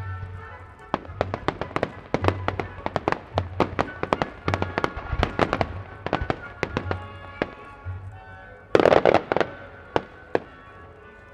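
Aerial fireworks bursting in quick succession with many sharp reports, over music played in time with the display. About nine seconds in comes a loud, dense cluster of bursts.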